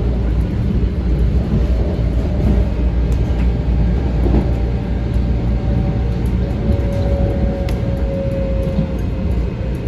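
Metro-North M7 electric commuter train running on the rails, heard from inside the passenger car: a steady low rumble with a few faint ticks. In the second half a faint whine comes in and drops slightly in pitch.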